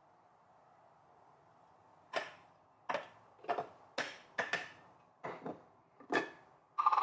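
A series of about ten sharp, irregular knocks and clicks of kitchen work, such as utensils and dishes being handled, starting about two seconds in after a quiet start.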